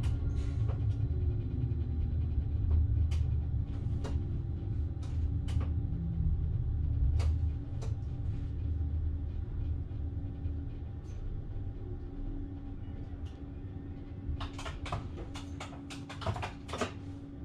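Train running slowly along a platform with a low rumble that eases off about halfway, over a steady hum. Scattered clicks and clunks come through, several close together near the end as the train comes almost to a stop.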